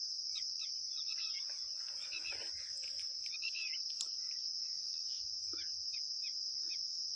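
Crickets trilling in a steady, continuous high-pitched drone, with faint scattered clicks and rustles of hands working on the swing motor parts.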